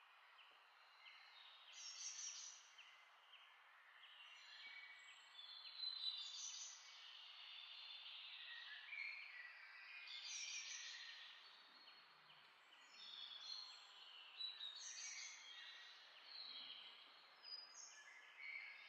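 Faint birds chirping and twittering, many short high notes and trills in quick runs.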